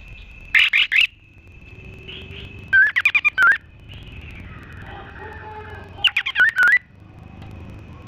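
Songbird calls from a bird-training recording: three loud bursts of rapid, sharp chirps, spaced about three seconds apart, over a faint steady high tone.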